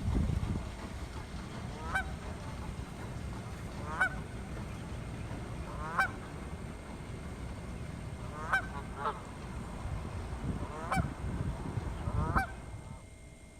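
Swans calling with short honks, about seven of them spaced roughly two seconds apart, a sound taken for the birds fussing or sounding mad, over a steady low rumble.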